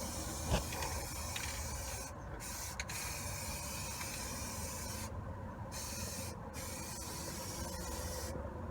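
Aerosol can of high-heat spray paint hissing in long sprays broken by short pauses, stopping shortly before the end. A single light knock about half a second in.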